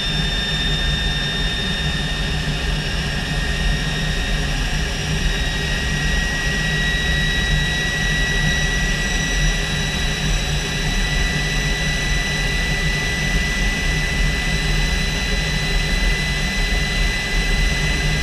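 Aero L-29 Delfin's Motorlet M-701 turbojet running on a ground run just after start: a steady low rush of jet noise with a high whine that rises slightly in pitch as the engine slowly comes up to speed.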